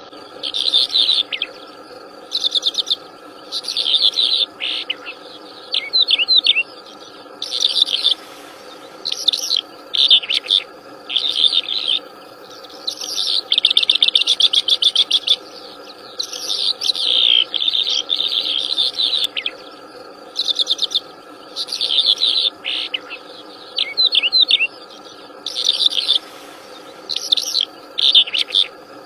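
Wild songbird singing loudly and repeatedly, short phrases of quick, varied chirps and trills every second or two, over a steady background drone.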